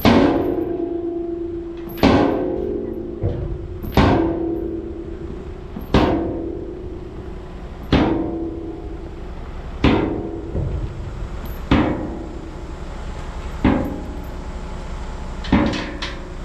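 Heavy hammer striking steel, about one blow every two seconds, each blow ringing out and dying away before the next.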